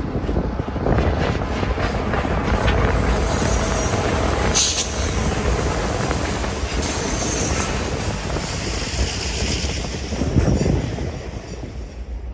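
Diesel locomotives and a short train passing close by: engine drone, low rumble and wheel noise on the rails, with a brief high screech about four and a half seconds in. The sound eases off near the end.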